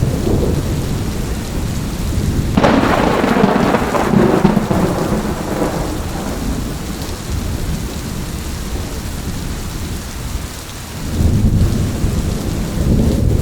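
Thunderstorm: steady rain falling, with a sharp thunderclap about two and a half seconds in that rolls into a rumble for a few seconds, and a second low rumble of thunder near the end.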